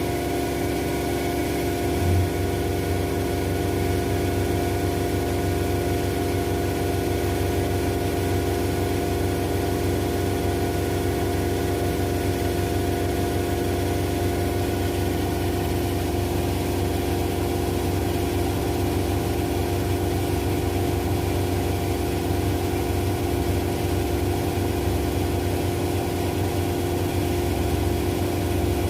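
Two washing machines, an LG with the Centum System motor and a Zanussi, spinning at a steady speed: a constant hum with several steady motor tones, and one brief thump about two seconds in.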